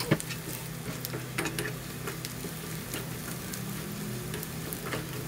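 Sliced garlic and shallots sizzling in oil in a nonstick wok, with a spatula scraping and tapping now and then as they are stirred, sautéing until fragrant. A steady low hum runs underneath.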